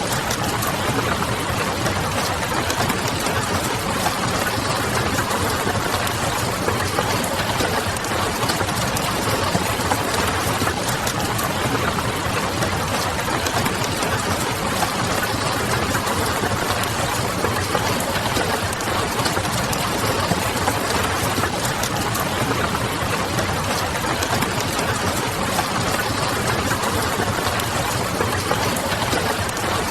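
Steady rain with the light, irregular crackle of a wood fire mixed in.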